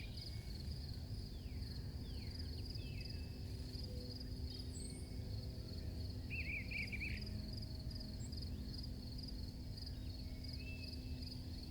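Faint, steady cricket chirping in an even pulse, over a low rumble, with a few short higher chirps, the clearest a quick trill about six and a half seconds in.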